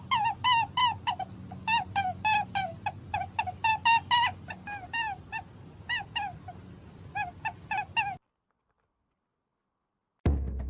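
An animal giving a rapid series of short, high-pitched calls, several a second, that stop abruptly about eight seconds in, followed by two seconds of silence.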